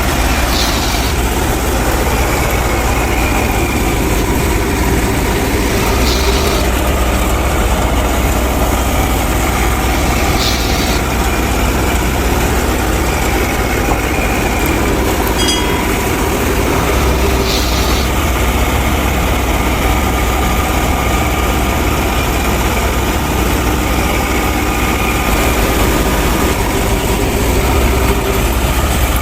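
An engine idling steadily with a low rumble, and a brief hiss a few times.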